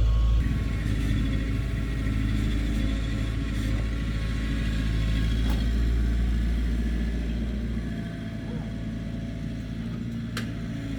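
A heavy construction machine's diesel engine running steadily, easing off a little near the end, with a sharp click shortly before the end.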